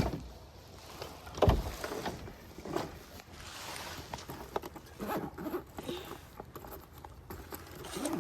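Canoe paddles dipping and splashing, with knocks against the hull. One sharp, heavy thump comes about a second and a half in, and lighter knocks follow.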